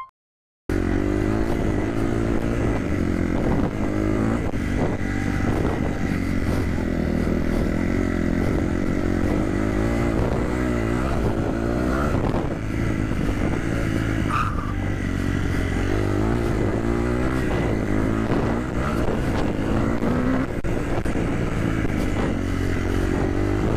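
Motocross bike engine running under riding, its pitch rising and falling as the throttle is worked, over a steady rush of noise. It starts after a brief moment of silence.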